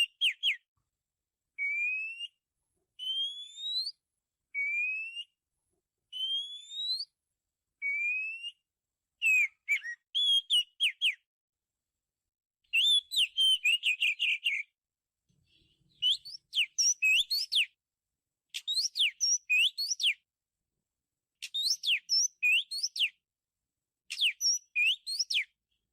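Oriental magpie-robin singing: a series of clear rising whistles, each under a second long, about one every one and a half seconds, then phrases of quick, varied sharp whistled notes from about nine seconds on.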